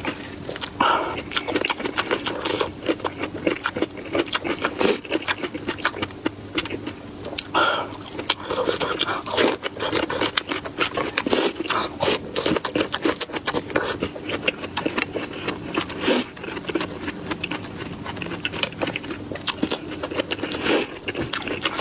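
Close-miked eating sounds: dense, irregular chewing clicks and crunches with a few louder snaps, over a steady low hum.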